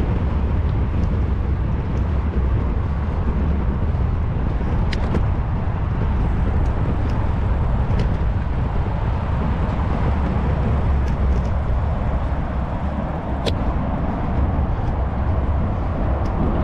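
Steady low rumble and hiss while riding a bicycle, with wind buffeting the GoPro's microphone and tyre and road noise, and a few faint ticks scattered through.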